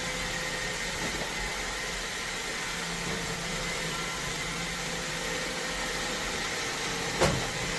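Robot vacuum running steadily: a suction fan's even rush with a faint motor hum, and a single short knock about seven seconds in.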